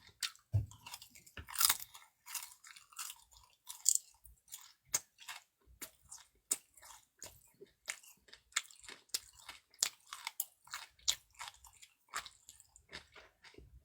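A person chewing food, a quick irregular run of small mouth clicks.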